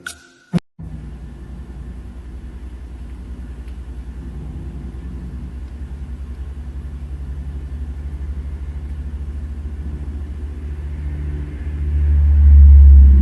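Domestic cat purring close to the microphone: a steady low rumble with a fast pulse that grows louder near the end.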